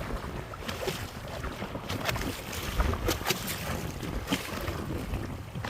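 Wind buffeting the microphone, with water sloshing and irregular small splashes and knocks.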